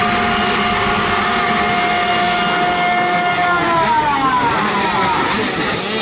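An 85cc two-stroke motocross bike engine revving. It holds one high, steady note, then the pitch falls away over about a second and a half past the middle.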